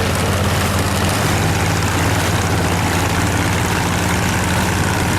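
A motor engine running steadily, with a constant low hum under a noisy rush.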